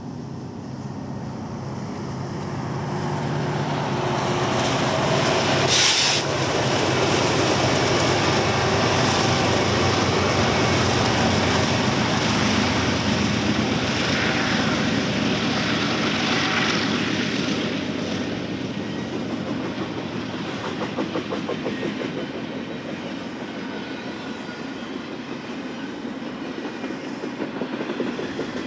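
Eastbound BNSF freight train led by locomotive 8453 passing: the diesel locomotives' engines build up and go by in the first few seconds, then the train's cars roll past with a steady clickety-clack of wheels over the rail joints. A brief sharp clank or rush of noise comes about six seconds in.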